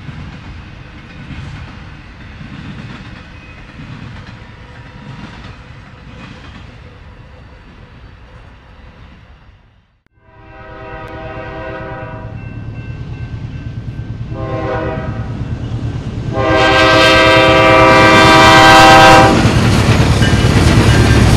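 A train rolls past with a rumble and clickety-clack of wheels over rail joints, fading away about halfway through. Then a locomotive air horn sounds a long blast, a short one and a longer, louder one, and an approaching train's rumble grows loud near the end.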